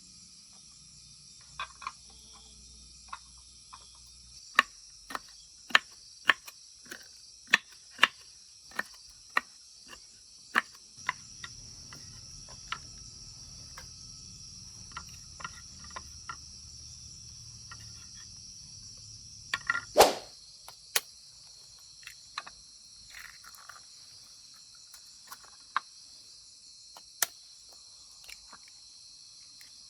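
Crickets chirring steadily in a high chorus. Over it comes a run of sharp knocks, roughly one or two a second, through the first third, then scattered knocks, with one loud knock about two-thirds of the way in.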